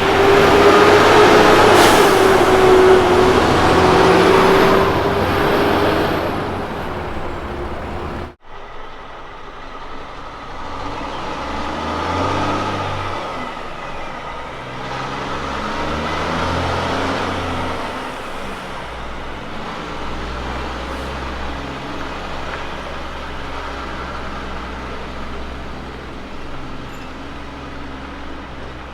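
Road train prime movers' heavy diesel engines. One truck goes by loudly with a sliding whine for the first eight seconds. After a sudden cut, another pulls away, its engine note climbing in steps through the gears, then easing to a steady low rumble.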